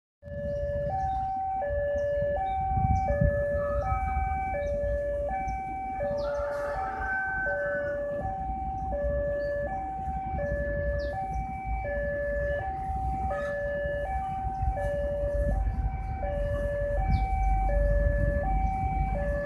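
Railway level-crossing warning alarm sounding a steady two-tone high-low pattern, about one cycle every second and a half, over a low rumble.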